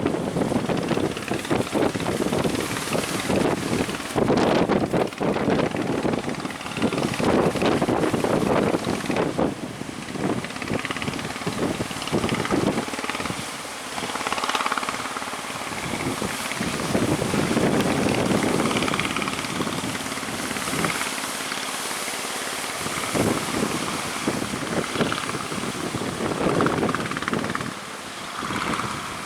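Strong gusty wind buffeting the microphone over the sound of the sea and surf. A faint steady drone sits underneath in the middle part.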